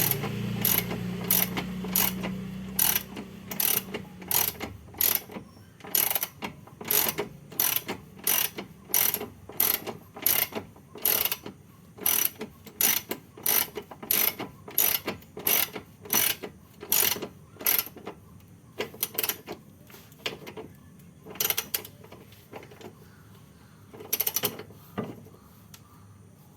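Hand ratchet wrench being worked back and forth on a nut or bolt, a short ratcheting click about twice a second, then slower, sparser strokes near the end. A low hum fades out over the first few seconds.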